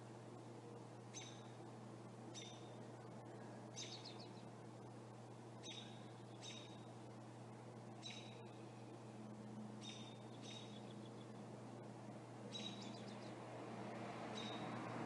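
A bird giving short, sharp chirps, repeated about once a second, over a steady low hum.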